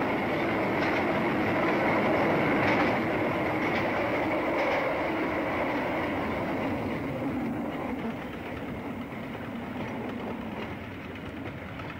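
Train running along the rails, a steady rumble with a few faint wheel clicks over the rail joints, growing somewhat quieter in the second half.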